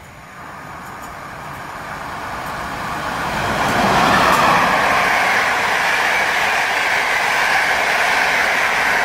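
Intercity passenger train hauled by an electric locomotive running through a station at speed. The rumble and rush of wheels on rails grow steadily louder as it approaches, peak as the locomotive passes about four seconds in, then continue as a steady rush while the carriages go by.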